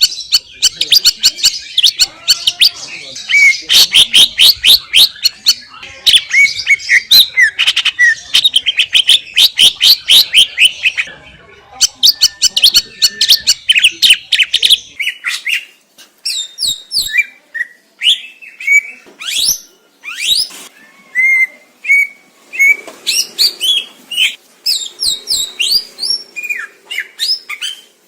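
Cucak ijo (green leafbird) singing loudly: a fast, dense run of chattering, sweeping notes that gives way about halfway through to more spaced-out whistled phrases.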